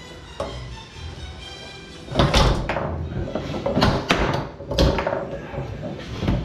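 Tornado foosball table in play: sharp knocks and clacks as the men strike the ball and the rods bang, one about half a second in and a rapid flurry from about two seconds in.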